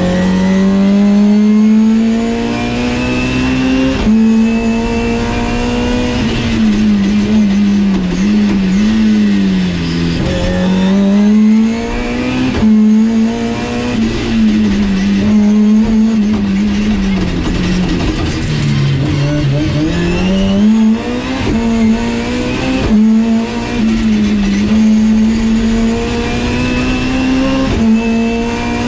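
BMW E30 320is rally car's four-cylinder engine, heard from inside the cabin, driven hard through the gears. Its pitch climbs and drops back at each upshift, with a few deeper dips where the car slows and accelerates again, over steady road noise.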